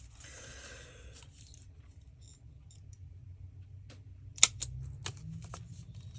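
Hand hole punch working paper: paper rustling in the first second, then a sharp click about four and a half seconds in, followed by several lighter clicks.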